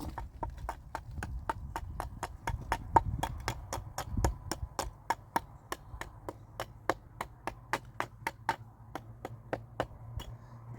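Rapid, even knocking, about four sharp strikes a second, that stops shortly before the end.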